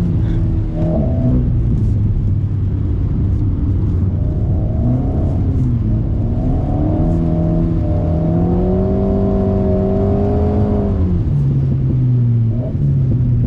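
Alpine A110's 1.8-litre turbocharged four-cylinder, with a BDA Racing Track Evo stainless exhaust, heard from inside the cabin while sliding on a wet track. The revs climb about four seconds in, hold high, then drop sharply about eleven seconds in.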